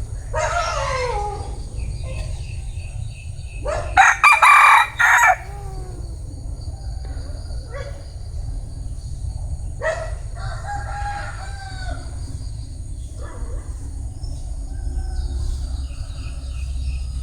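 Vietnamese bantam (gà tre) rooster crowing and clucking in several calls. The loudest comes about four seconds in, with others near the start and around ten seconds, over a steady low rumble.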